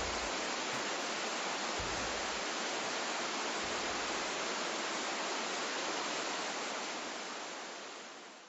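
Waterfall, water rushing steadily, fading out near the end.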